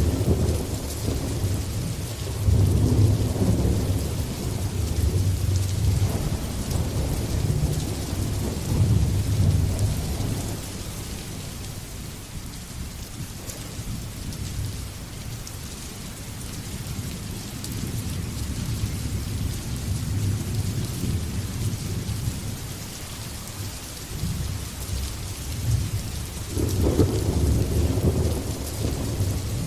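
Steady rain with thunder rolling on and off: long low rumbles through the first ten seconds or so, easing in the middle, then building again near the end.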